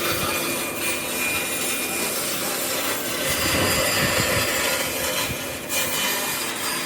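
Wood being worked with a tool, a steady rasping, scraping noise with a short break about five and a half seconds in.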